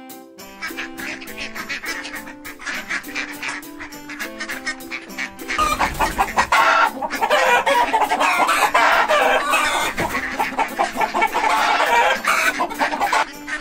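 Chickens clucking and squawking over light background music, the clucking growing louder and denser about halfway through.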